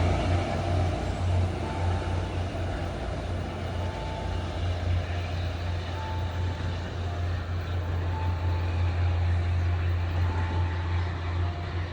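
MBTA commuter train's diesel locomotive running with a steady low engine drone and a haze of rail noise, while a faint short tone repeats about every two seconds.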